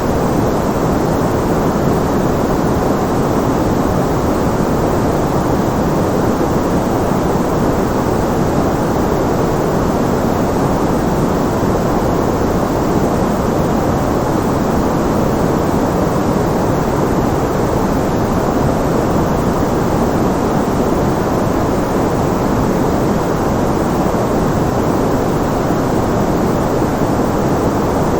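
Steady white-noise track: an even, unchanging rush, heavier in the low and middle range than in the high hiss.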